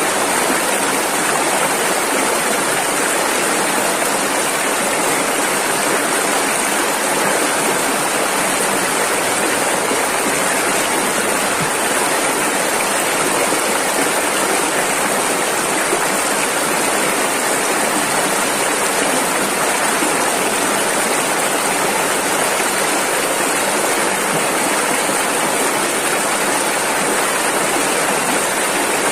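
Rushing river water, a steady, unbroken roar of rapids and churning flow.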